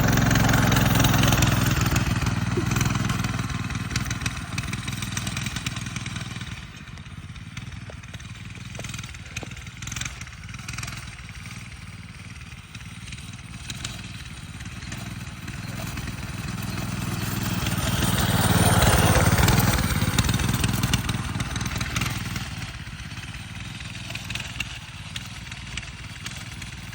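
Coleman 200cc minibike's single-cylinder four-stroke engine running as the bike pulls away and fades, then grows loud again as it passes back by about two-thirds of the way through, and fades once more.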